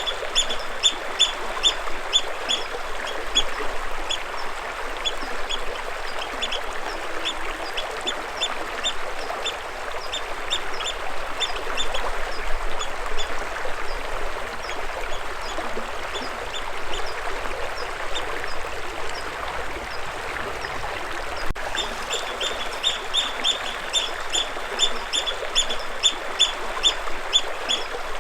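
Steady rush of flowing water with a bird calling over it in quick runs of short, high chirps, about three a second. The chirping is thickest in the first few seconds and again over the last several seconds.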